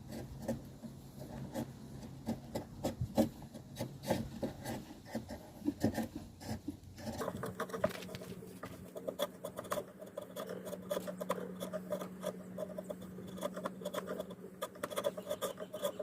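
Hand tools working wood: irregular small taps, clicks and rasping, rubbing scrapes. About seven seconds in the sound changes and a steady low hum comes in under the tapping.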